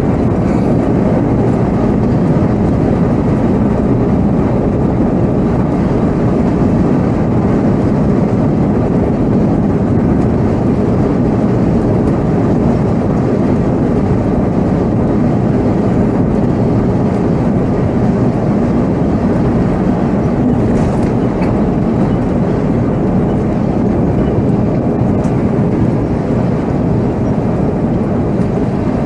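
Volvo B7R coach's diesel engine and road noise heard from the driver's seat while driving: a loud, steady, low rumble.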